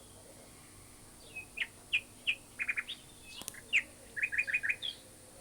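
Small songbird chirping: a series of short, quick chirps, some in rapid runs of three to five, starting about a second in. A single sharp click comes midway.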